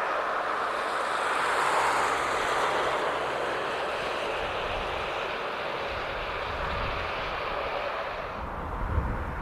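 Boeing 757-200F freighter's twin jet engines running on departure, a steady rush of jet noise. Its high hiss is strongest about two seconds in and falls away near the end.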